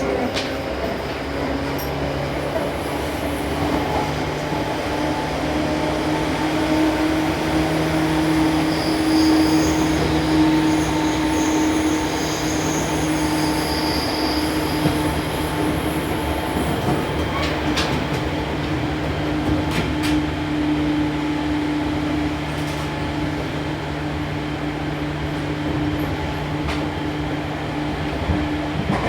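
Seibu New 2000 series electric train running between stations, a steady hum from the traction motors over the rumble of the wheels on the rails. A few sharp clicks come about two-thirds of the way through, as the wheels pass rail joints.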